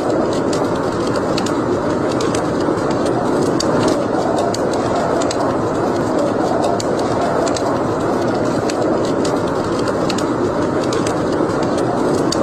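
Wood fire burning in a fireplace: a steady rushing rumble of the flames with frequent small, irregular crackles and pops.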